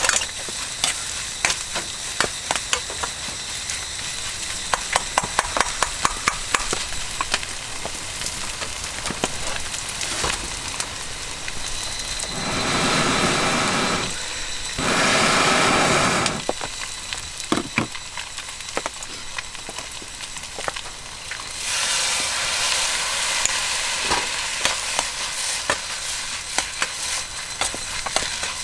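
Fried rice sizzling in a wok over a campfire, with repeated clicks and clacks of stirring. The sizzle swells louder twice around the middle and once more later.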